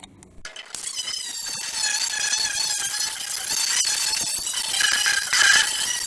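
Angle grinder with a wire wheel starting up about half a second in and scrubbing paint and coating off sheet steel. Its high whine wavers in pitch as the wheel is pressed on and eased off.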